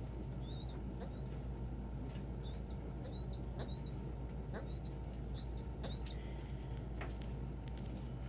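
A pigeon giving short, high squeaky peeps, about eight of them at irregular intervals, with a few faint clicks over a steady low hum.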